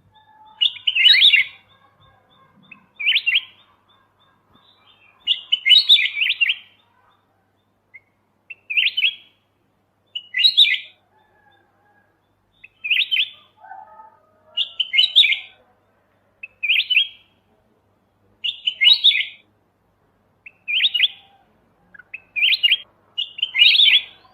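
Kutilang emas bulbul singing short, bright phrases about every two seconds, about a dozen in all, with a few faint lower notes between them.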